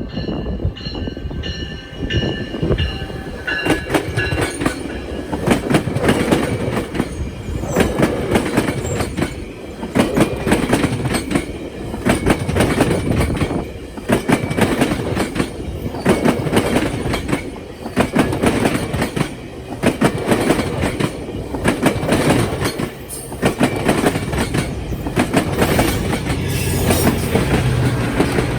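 Train rolling over a railway diamond crossing, its wheels banging over the crossing's gaps in a rapid, uneven clatter. A low steady engine hum comes up near the end.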